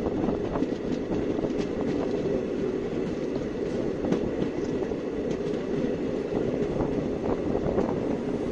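Indian Railways passenger coach running along the track, heard from an open window: a steady rumble of wheels on rail with scattered light clicks.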